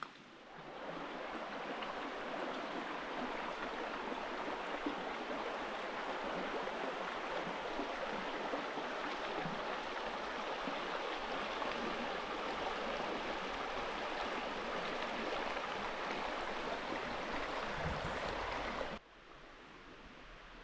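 Clear mountain river flowing over rocks: a steady rush of water that cuts off abruptly near the end.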